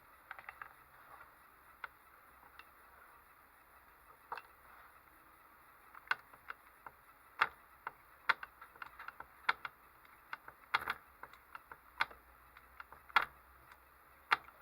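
Irregular sharp clicks and taps from a small model engine being handled and turned over by hand, sparse at first and coming thicker and louder from about six seconds in; the engine is not running.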